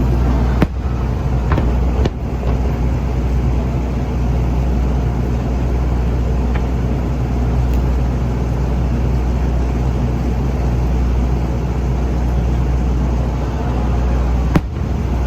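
Steady low rumble of outdoor background noise, broken by a few sharp fireworks bangs: one under a second in, one about two seconds in, and one near the end.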